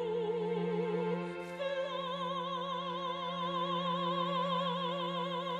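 Operatic singing with orchestral accompaniment: a voice holds a long note with wide vibrato, then steps up to a higher held note about a second and a half in. A steady low note from the orchestra sustains beneath it.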